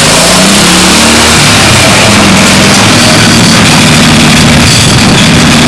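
Tractor engine revving, its pitch rising and falling, under a loud, even hiss.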